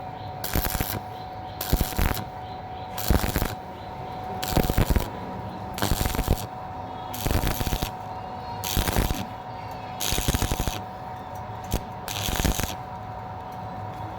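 Stick (arc) welding thin box tubing with an electrode, done in short pulses: the arc crackles and sputters in bursts of about half a second, roughly once a second, breaking off between them. This start-stop technique keeps the thin metal from burning through.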